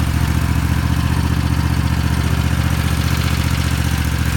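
Tractor engine running steadily at a constant low speed, with an even, fast pulse.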